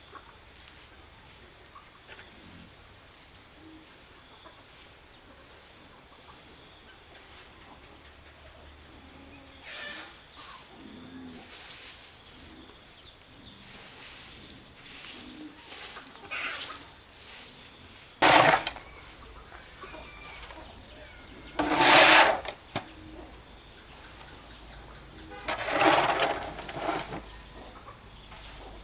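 Steady high-pitched chirring of insects, with three loud, short sounds about four seconds apart in the latter half.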